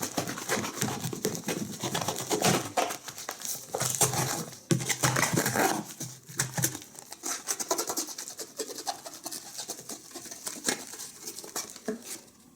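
Sawing a rabbit in half by hand: a dense, irregular run of rasping, scraping and crinkling strokes, with a louder, lower stretch around the middle.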